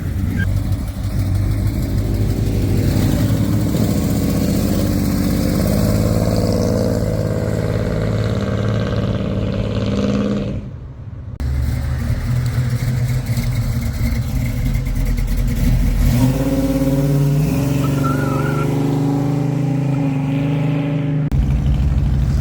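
Car engines running and revving as cars drive off one after another, with a brief drop in level about halfway through.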